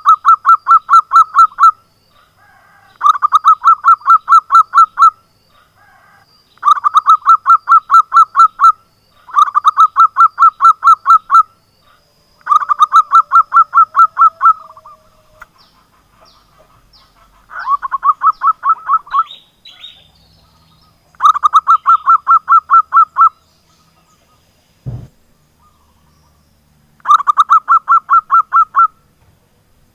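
Zebra dove (perkutut) singing: repeated bouts of fast, evenly pulsed coos, about two seconds each, separated by pauses of a few seconds. There is a single faint knock about 25 seconds in.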